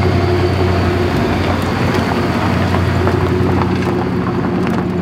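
Supercharged Toyota 1UZ V8 in a drift car running at steady revs, heard from inside the cabin.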